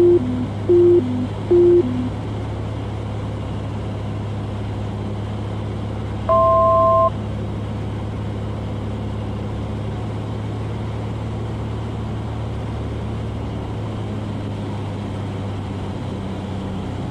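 Cessna 182's piston engine droning steadily in the cockpit. At the start, three quick falling two-note electronic beeps sound over it, and about six seconds in a single two-note tone sounds for under a second.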